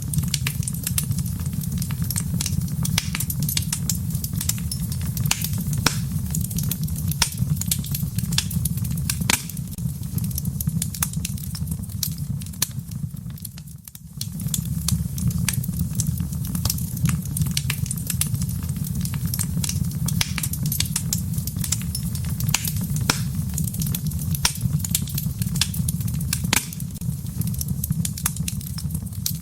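Wood fire crackling in a fireplace: a steady low rumble of flames under a continual scatter of sharp pops and snaps. The sound dips briefly about halfway through, then carries on as before.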